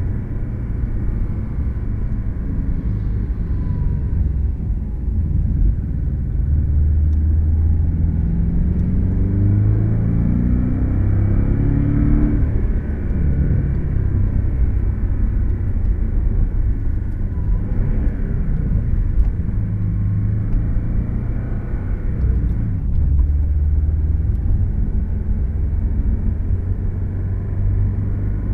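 Porsche sports car's engine heard from inside the cabin while driving, with road noise beneath it. Its pitch rises in two pulls about eight to twelve seconds in as it accelerates, then settles back.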